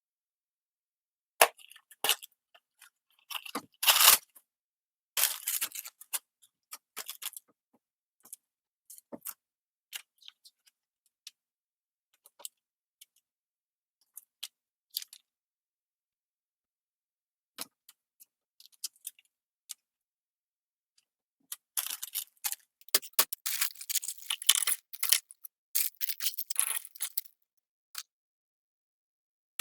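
Small plastic Lego pieces clicking and clattering as they are picked up and snapped together, with scattered single clicks and two spells of dense rattling, one near the start and a longer one about three-quarters of the way through.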